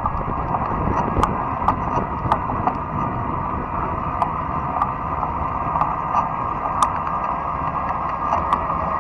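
Fat-tire electric bike riding along a trail: steady rolling noise from the tyres and drivetrain with a faint whine, broken by frequent short sharp clicks and ticks.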